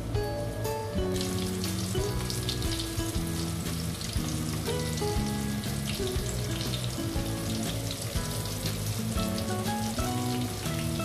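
Flour-battered shrimp frying in hot oil in a wok: a dense crackling sizzle that grows fuller about a second in and then holds steady, over background music.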